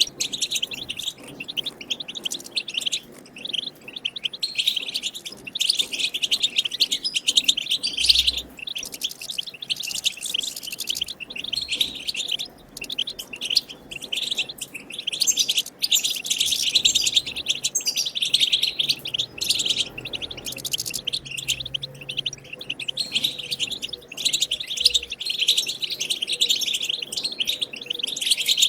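European goldfinch song: a fast, continuous twittering chatter of high notes, with only short pauses.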